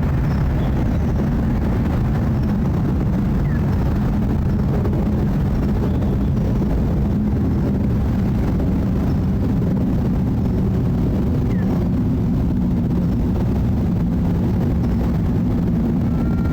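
Jet airliner flying overhead after departing SFO, its engines a steady low rumble.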